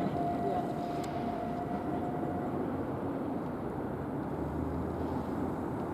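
Steady rumble of railway and city traffic, with a thin steady whine that stops about two and a half seconds in.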